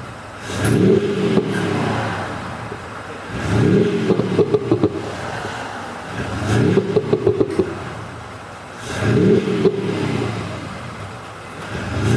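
Mercedes-Benz GLE 400d diesel with an active sound booster exhaust generator producing an imitation AMG V8 note, blipped four times, each rev rising and falling in pitch about three seconds apart. Each rev ends in a crackle of synthetic pops and bangs as it drops back.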